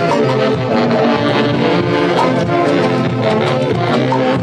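Live music from a Peruvian saxophone-and-brass festival orchestra: wind instruments playing a melody together over a steady dance beat.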